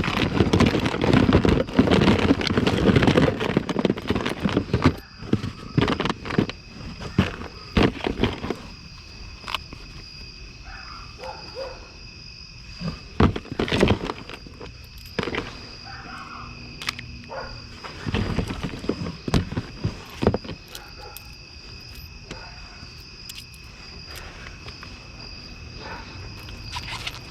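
Rustling and clattering of trash being sorted through by hand, dense for the first eight seconds, then in shorter bursts. Behind it runs the steady high trill of night insects.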